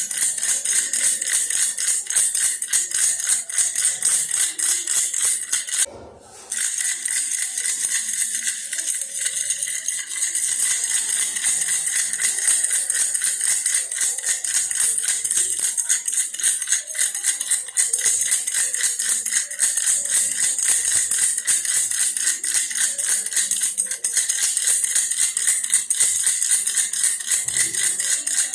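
Baby's toy bear rattle shaken rapidly and continuously, a dense bright rattling with a brief break about six seconds in.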